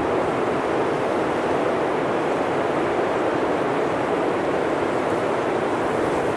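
Steady blizzard wind: an even rushing noise that holds at one level, with no gusts or lulls.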